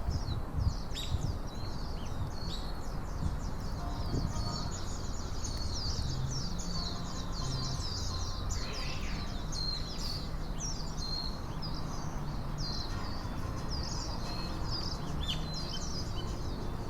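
Many small birds chirping and singing, a dense stream of short high chirps, over a steady low rumble of outdoor background noise.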